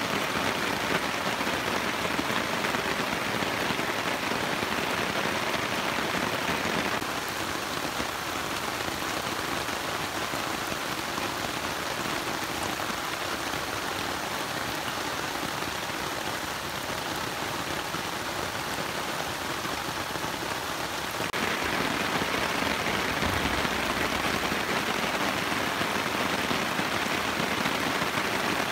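Steady rain falling, an even hiss that shifts a little in tone about seven and again about twenty-one seconds in.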